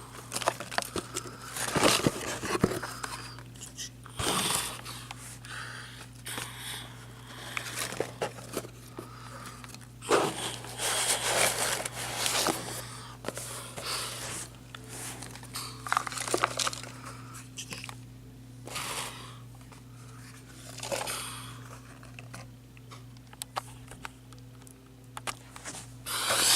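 Irregular crinkling, rustling and scraping handling noises close to the microphone, in short bursts of varying loudness, over a steady low electrical hum.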